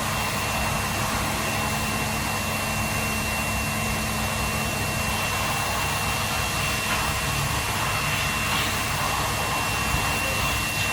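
Steady machine noise: an even rushing hiss with a thin, high, steady whine through it, unchanging throughout.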